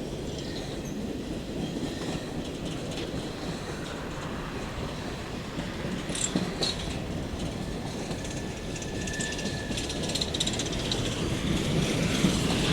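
Train cars rolling past on the rails: a steady rumble with clicks of wheels over rail joints. A thin wheel squeal comes in about nine seconds in, and the sound grows louder near the end.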